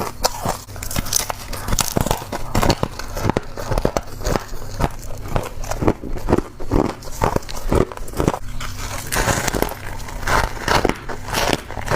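Frost being bitten and chewed close to the microphone: a continuous run of irregular, crisp crunches and crackles.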